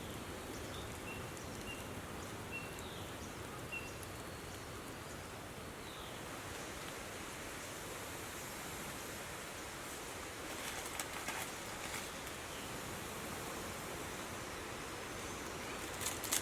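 Steady outdoor wind noise, with a few faint short bird chirps in the first few seconds and some light rustling about ten to twelve seconds in.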